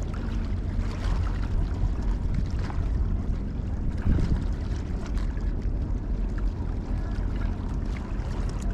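Wind buffeting the microphone: a steady low rumble that rises and falls slightly without letting up.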